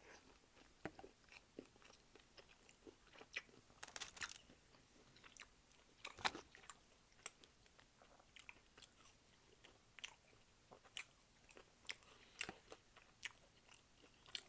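Close-up eating sounds: scattered crunches and small chewing clicks as a hard fried hush puppy dipped in honey mustard is bitten and chewed, with the loudest crunch about six seconds in.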